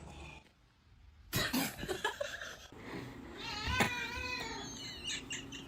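A cat's long, wavering yowl lasting about two seconds, preceded by a few knocks and rustles.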